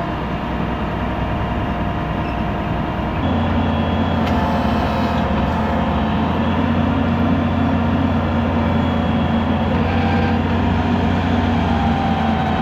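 Heavy diesel farm machinery running steadily under load. About three seconds in, a deeper, louder engine hum takes over.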